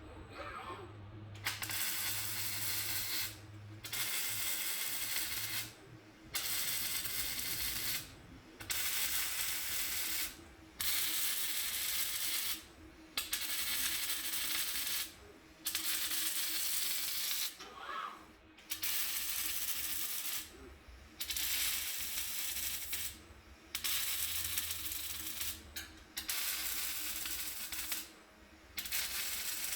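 Welding arc of a robotic welder crackling in repeated bursts of about two seconds, with pauses of about half a second between them, as it lays a series of short welds. A steady low hum runs underneath.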